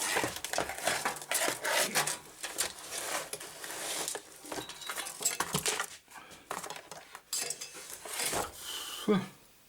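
Hard metal and plastic computer parts being handled: irregular clicks, clinks and short scraping rubs.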